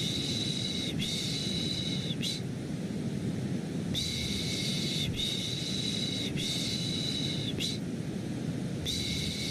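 Shushing ('shh' / 'piş piş') for soothing a baby, repeated in groups of long strokes with short pauses between the groups, over a steady, deep-toned white-noise bed.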